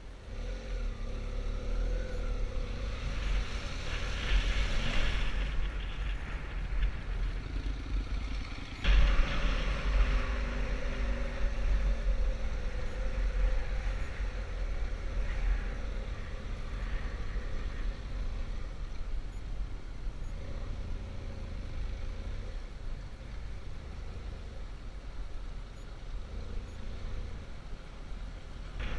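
Adventure motorcycle engine running while riding, with wind rushing over the microphone; the sound changes abruptly about nine seconds in, then keeps on steadily.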